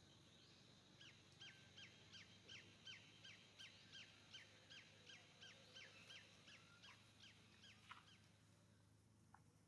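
A bird calling faintly in a long, even series of short downward-slurred whistled notes, about two to three a second, starting about a second in and stopping near the end.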